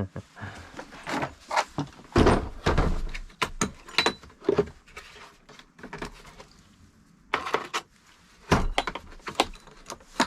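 Irregular metallic knocks and clanks from hand tools being handled while working on leisure battery terminal nuts, with a quieter pause about six to seven seconds in.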